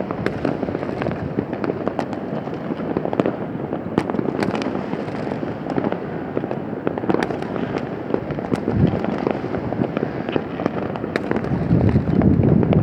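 Many New Year fireworks going off at once: a continuous crackle of bangs and pops. Deeper booms come about nine seconds in and again near the end.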